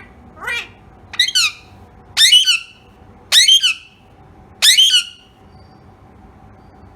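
Indian ringneck parrot squawking: one softer call, then four loud, harsh screeches about a second apart.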